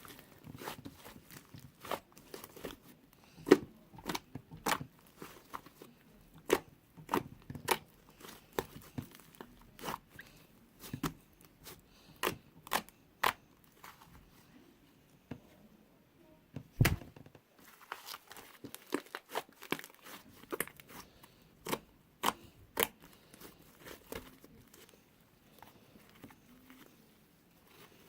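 Slime being squeezed and pressed by hand, giving irregular sharp clicks and pops about one or two a second, with one heavier thump about two-thirds of the way through.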